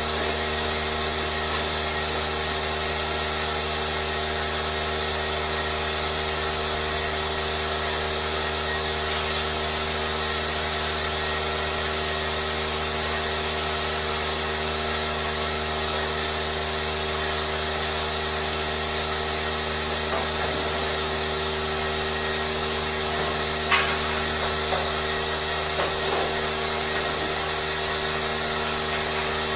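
A steady mechanical drone with several fixed hum tones and a high hiss, like machinery running continuously. A short hiss comes about nine seconds in, and a few light knocks come near the end.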